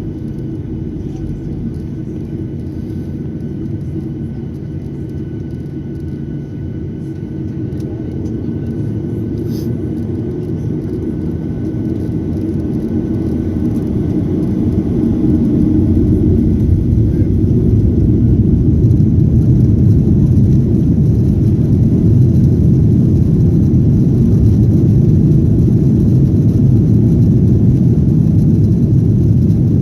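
Boeing 737-800 jet engines heard from inside the passenger cabin: a low rumble that grows louder over about eight seconds, then holds steady at a higher level, as the engines spool up to higher thrust.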